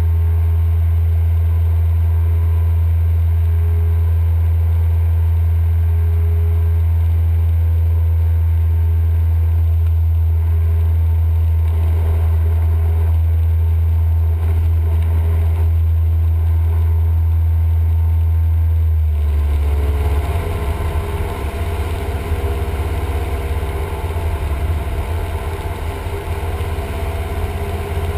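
Cessna 172M's four-cylinder Lycoming engine and propeller droning steadily. About two-thirds of the way through, the note changes, becoming rougher and less even.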